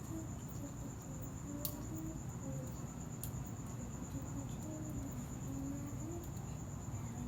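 A cricket chirping in a fast, steady high trill, with faint voices in the background and a couple of faint clicks.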